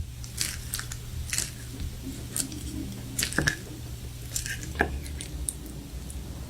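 Close-miked mouth sounds of someone eating: wet chewing and a string of short, sticky lip smacks and clicks, over a steady low hum.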